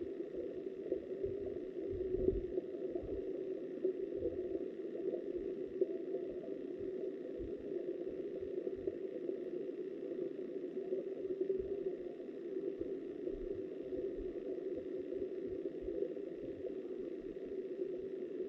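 River water flowing, heard through a submerged camera housing: a steady, muffled rushing with irregular low knocks.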